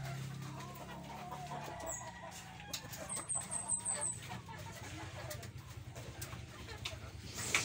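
Birds calling, including a quick run of about six short high chirps about three seconds in, over a steady low hum.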